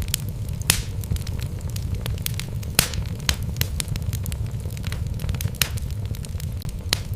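Wood fire burning in a fireplace: a steady low rumble of flames with irregular sharp crackles and pops from the burning logs, the loudest pops about a second in, near three seconds and near the end.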